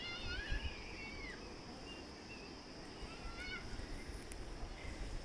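Faint high bird chirps and short whistled glides, a cluster in the first second and a half and another around the third second, over a low rumble.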